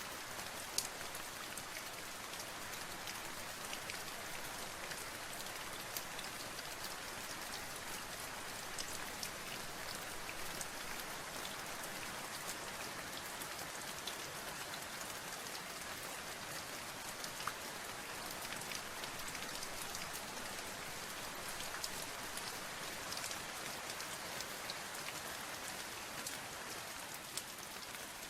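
Steady rain, a constant hiss dotted with the sharp ticks of single drops striking a surface.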